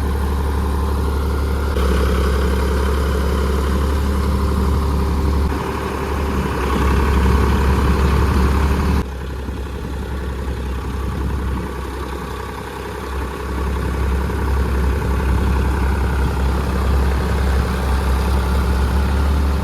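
Tractor diesel engines running hard with a deep, steady note that shifts in level and changes abruptly several times.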